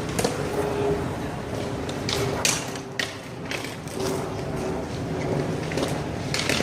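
One-wall handball rally: a small rubber handball is slapped by hand and smacks against the wall, giving several sharp slaps at irregular intervals over steady outdoor background noise.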